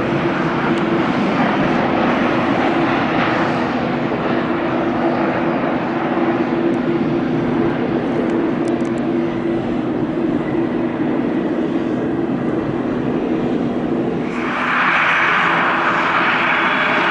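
Jet airliner's engines running after landing, a steady rush with a low steady hum that fades. About fifteen seconds in it gives way abruptly to the louder, brighter rushing of a Fuji Dream Airlines Embraer regional jet's engines on its landing.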